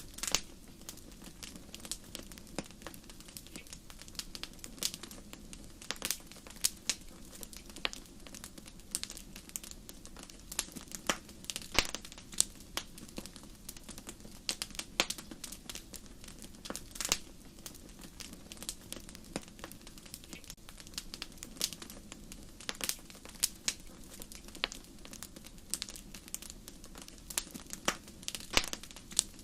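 Wood fire crackling in a fireplace: irregular sharp pops and snaps, a few louder than the rest, over a low steady rumble of the flames.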